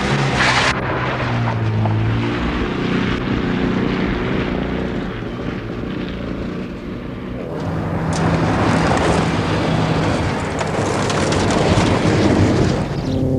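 Citroën DS 23 rally car's four-cylinder engine running hard under heavy rushing noise. The sound dips about seven seconds in, then builds again.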